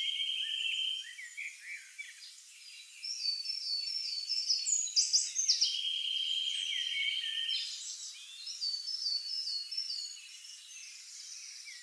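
Several songbirds singing together, in quick series of repeated high chirping notes. A steady trill lasting about a second comes at the start and again around the middle.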